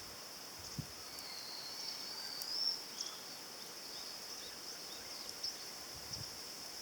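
Steady high-pitched insect chirring, with a few faint clicks and taps.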